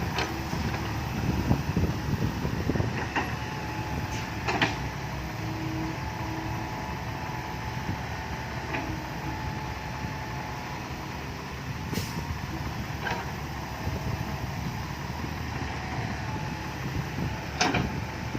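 Heavy diesel engine running steadily, with a few sharp knocks.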